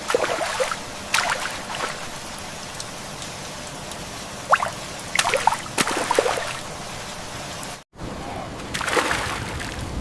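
Water trickling and sloshing in several short bursts, with gurgling, over a steady hiss of rain.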